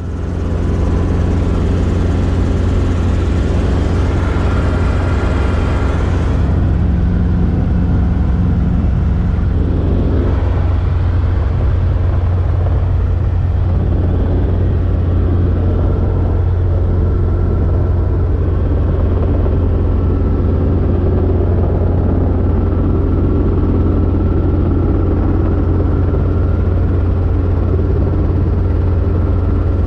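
Robinson R22 helicopter running steadily, its four-cylinder Lycoming piston engine and rotor making a loud, even drone with a strong low hum.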